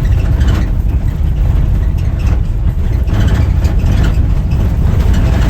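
A support vehicle driving up a steep, rough dirt road: a loud, steady low rumble of engine and tyres on gravel.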